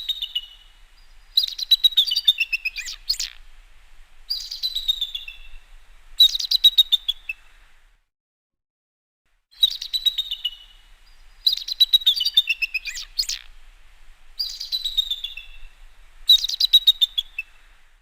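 Bald eagle calling: high, thin chattering calls, each a rapid run of piping notes falling in pitch. Four bursts of about a second each, a pause of about a second and a half, then four more.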